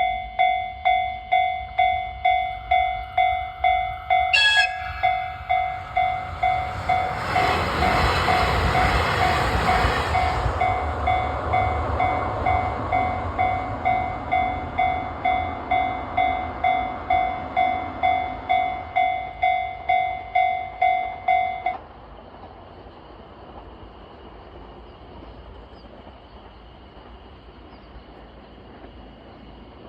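Japanese level-crossing bell dinging steadily at about one and a half strokes a second. About four seconds in, a limited express diesel train gives a short horn blast, then rumbles past over the rail joints, loudest around eight to ten seconds in, and fades away. The crossing bell stops suddenly about 22 seconds in, leaving a quiet steady background.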